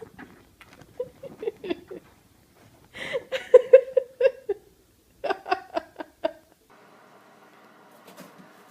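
A person laughing in three bursts of quick, even pulses, the middle burst the loudest. It gives way to a faint steady hum about seven seconds in.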